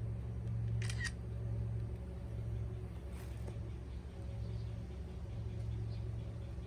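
A sharp double click about a second in, over a steady low hum.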